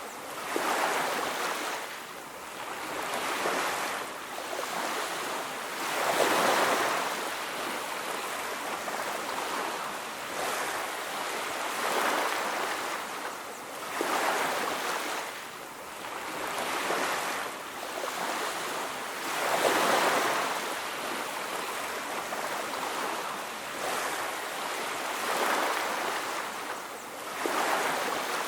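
Ocean surf on a beach: waves breaking and washing in, the rush swelling and fading again every few seconds.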